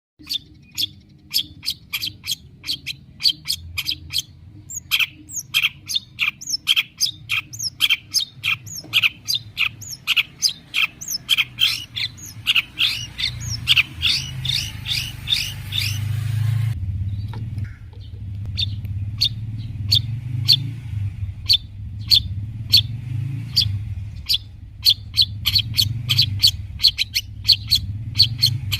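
Long-tailed shrike (cendet) singing a fast, unbroken run of short, sharp chattering notes, several a second, over a steady low rumble.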